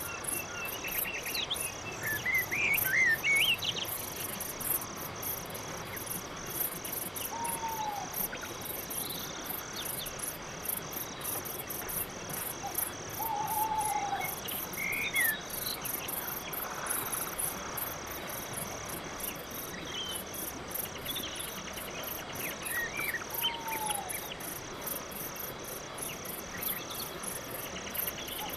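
Crickets chirping in a steady, evenly pulsed chorus that repeats several times a second, with a few short downslurred bird calls and scattered higher chirps over it.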